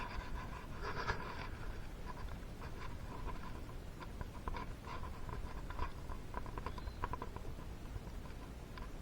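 Light clicks and scratching of small engine parts being handled by hand during piston installation on a two-stroke engine, irregular throughout, with a brief louder rustle about a second in.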